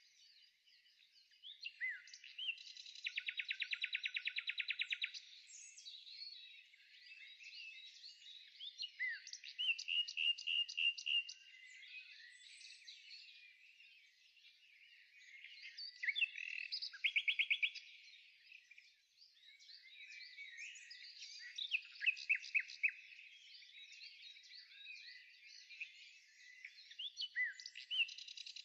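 Several birds singing, with chirps, whistled glides and rapid trills overlapping throughout, the busiest trills about three, ten, seventeen and twenty-two seconds in.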